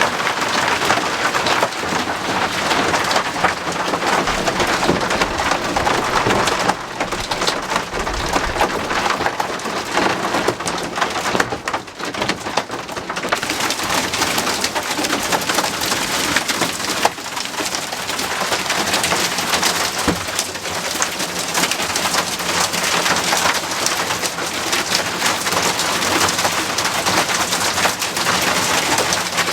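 Heavy hail pelting down: a dense, continuous clatter of hailstones striking hard surfaces.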